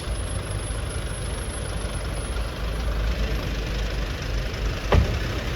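Street traffic with a steady low engine rumble, and a single sharp knock about five seconds in.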